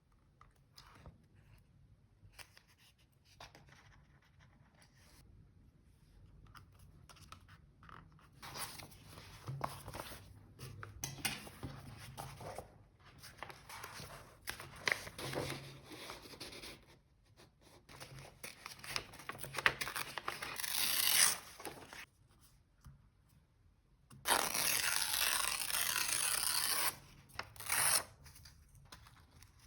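Paper and stickers handled at a desk for diary decorating: soft rustling and crinkling, then a steady tearing sound lasting about three seconds near the end, and a short tear right after.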